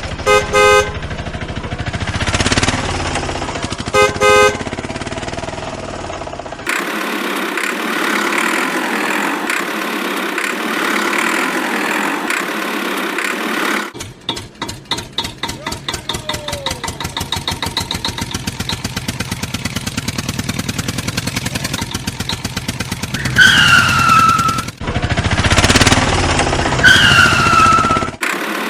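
Cartoon truck sound effects: two short horn honks near the start over engine noise, then a fast, even engine putter. Two loud squeals fall in pitch near the end.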